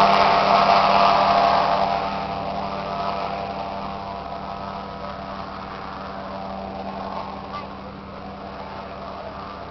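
Small propeller aeroplane's engine running steadily as it moves away, fading over the first few seconds and then staying faint.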